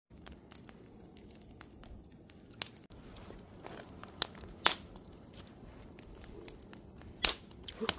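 Campfire wood burning, crackling with scattered sharp pops over a low steady rush of flame; the loudest pops come about 2.5, 4 to 5 and 7 seconds in.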